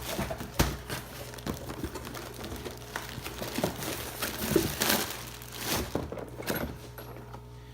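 Packaging being handled and opened: crinkling packing material and rustling cardboard with irregular clicks and knocks, over a steady electrical hum.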